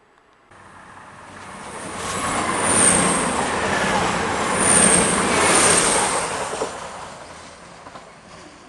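Class 220 Voyager diesel multiple unit passing close by. Wheel and engine noise comes in suddenly, swells to a loud rush with peaks as the cars go past, then fades as the train draws away.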